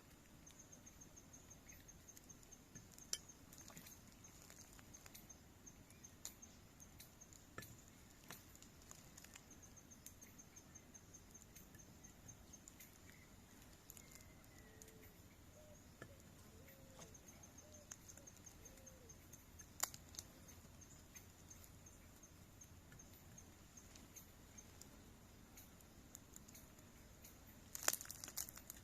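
Near silence, with a faint insect trilling in a high, fast pulse that starts and stops three times. Scattered small clicks and knocks, with a sharper burst of clicks near the end.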